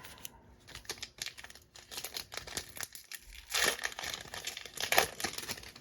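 Plastic trading-card pack wrapper being crinkled and torn open, with a run of small crackles and louder crinkling about three and a half and five seconds in.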